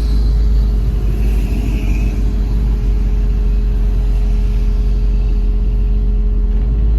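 1972 Ford Mustang Mach 1's V8 running steadily while cruising at low speed, heard from inside the cabin as a constant low rumble mixed with road and wind noise through the open window.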